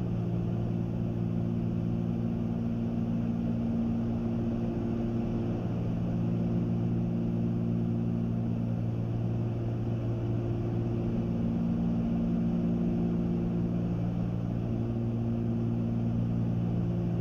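Cabin drone of a Cessna 310Q's two six-cylinder piston engines and propellers, running at reduced power (about 15 inches of manifold pressure) for the descent. A steady low hum, with the higher tones slowly fading and returning every few seconds.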